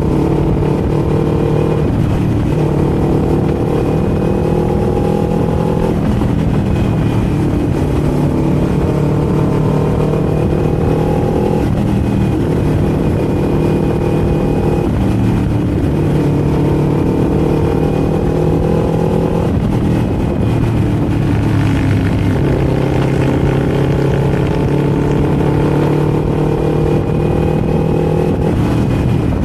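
Kawasaki Z400's parallel-twin engine under way. The revs climb slowly for a few seconds at a time, then the pitch drops sharply as a gear changes, about seven times, over steady wind and road noise.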